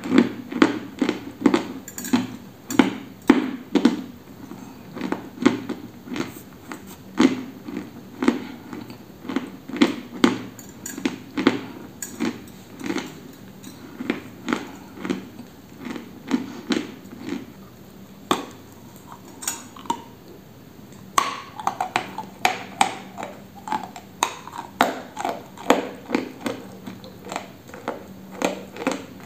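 Close-up chewing of a dry white chalky lump: crisp crunches about twice a second, easing off for a few seconds about two-thirds of the way through, then picking up again.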